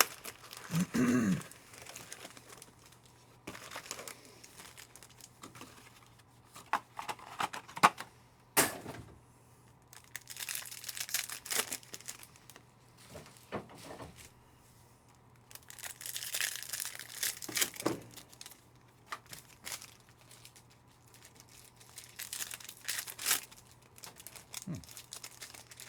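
Trading-card packs being torn open by hand, their wrappers crinkling and crackling in irregular spells with short pauses between.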